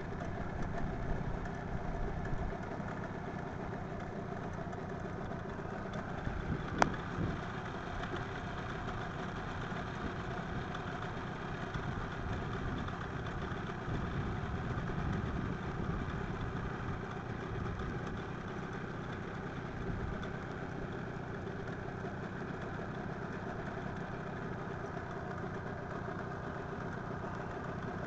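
A steady engine-like drone running evenly, with one sharp click about seven seconds in.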